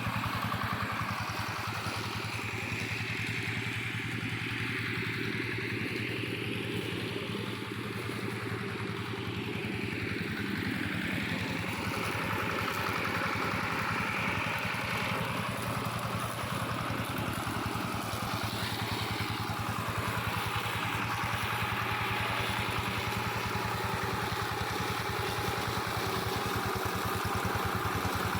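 Engine of a hand tractor rigged as a brush mower, running steadily at work, with a rush of noise over it that swells and fades.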